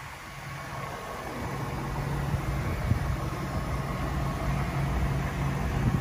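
Cadillac XLR's Northstar V8 idling with the hood open: a steady low hum that grows louder about a second and a half in, then holds steady.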